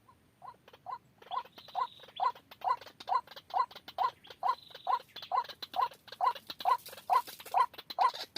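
White-breasted waterhen calling: a steady, monotonous run of short, harsh notes at about two a second, growing louder over the first couple of seconds after a brief pause.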